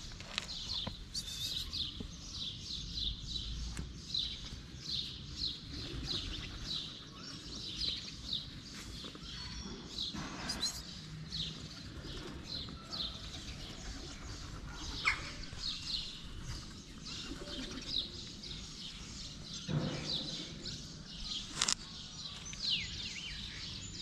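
Small birds chirping: a steady run of short, high chirps about two a second, with a few faint knocks now and then.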